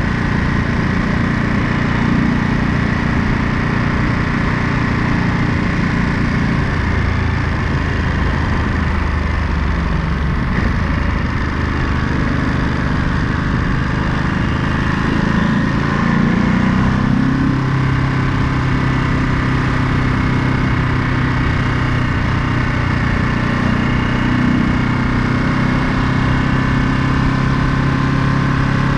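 Ducati Monster 937's 937 cc L-twin engine running on the road. Its pitch drops about seven seconds in, stays low for several seconds, rises again around sixteen seconds in and then holds steady.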